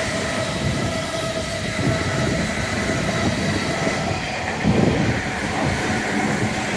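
Tobu Tojo Line electric train passing close by: a steady rumble of wheels and running gear, with thin steady high tones held above it.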